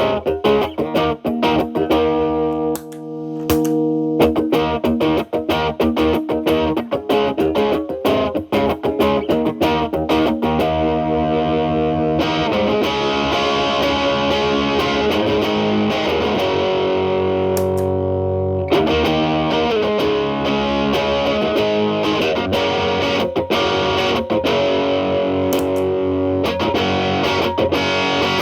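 Electric guitar (Telecaster) played through an MI Audio Crunch Box distortion pedal into a Marshall Valvestate amp's clean channel, in its cleaned-up setting. Choppy picked notes and chords with short gaps give way about twelve seconds in to fuller, sustained, more distorted playing with more hiss.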